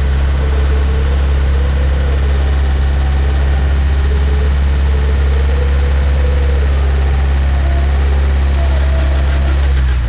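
Off-road vehicle engine idling steadily with a constant low hum, with a faint wavering whine above it.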